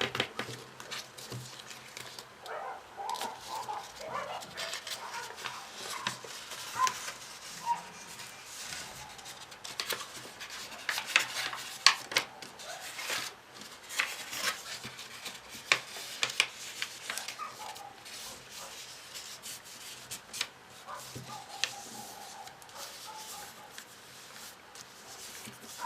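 Sheets or modules of paper being handled, folded and creased by hand: irregular crackles and rustles.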